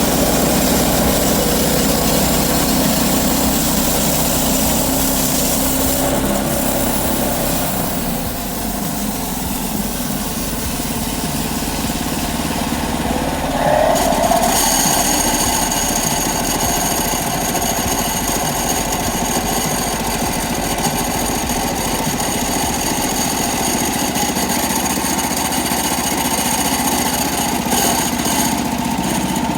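Old sawmill's engine running steadily. A high, steady whine joins about halfway through.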